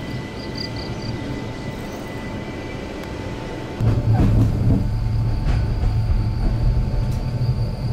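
Running noise of a narrow-gauge Bernese Oberland Railway electric train, heard from inside the carriage: a steady, fairly quiet rumble that turns into a louder low rumble from about four seconds in, with a few short clicks from the wheels on the track.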